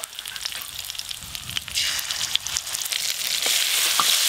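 Ground spice paste sizzling as it goes into hot oil in a metal wok with fried fish, stirred with a metal spatula that clicks and scrapes against the pan. The sizzle swells loud about two seconds in.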